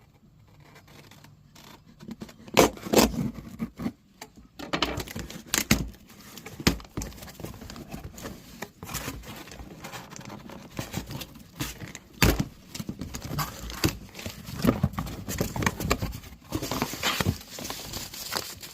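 A cardboard box being opened and unpacked by hand: irregular scraping, rustling and sharp knocks of cardboard and packaging, with a longer rasping stretch near the end.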